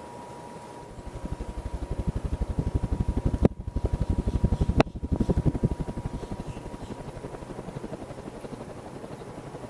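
Hunter Original ceiling fan running, its blades sending a rapid, even beat of air pulses over the microphone that builds up and then settles. Two sharp clicks come partway through.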